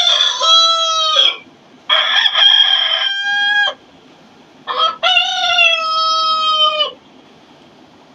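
Domestic rooster crowing three times in a row, each cock-a-doodle-doo ending in a long held note.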